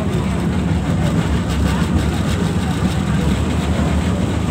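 LRT-1 third-generation light rail train running along its track, heard from inside the passenger car as a steady low rumble with a haze of wheel and rail noise.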